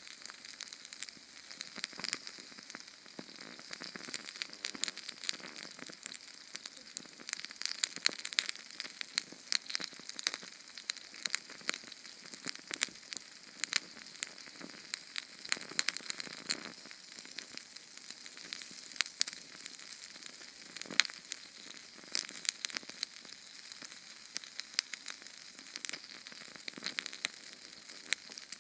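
Small Sterno canned-fuel flame burning: a steady hiss with dense, irregular crackles and pops.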